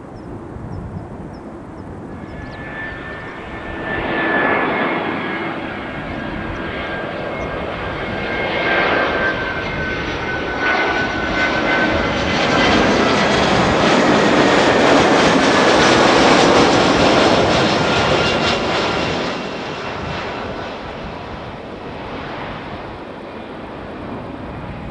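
Airbus A320 jet airliner's turbofan engines as the aircraft passes, swelling to a peak about two-thirds of the way through and then fading. A high fan whine runs through it and slowly falls in pitch.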